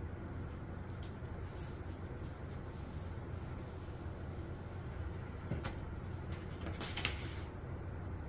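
Sheet metal being handled and marked out: a few light clicks and scrapes, the loudest a brief scrape about seven seconds in, over a steady low hum.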